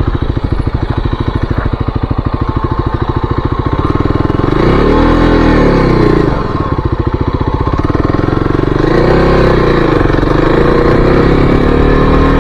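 2023 Kawasaki KLX-300's single-cylinder four-stroke engine running at low revs with a steady, even pulse, then revving up and back down twice, about five seconds in and again near nine seconds.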